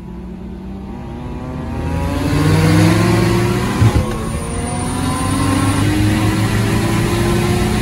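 Car engine accelerating hard down a drag strip, getting louder and climbing steadily in pitch, with a short sharp crack about four seconds in.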